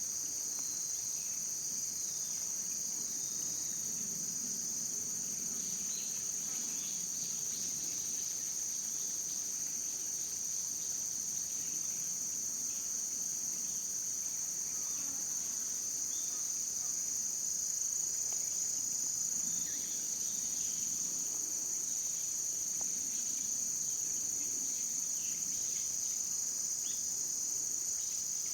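Steady, high-pitched chorus of singing insects that runs without a break.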